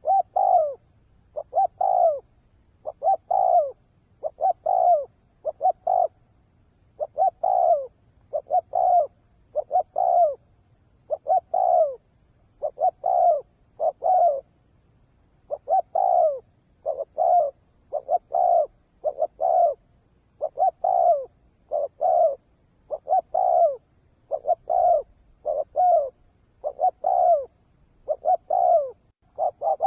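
Spotted dove cooing: a steady, rhythmic run of short coo phrases, each of two or three notes that slide down in pitch, repeating over and over.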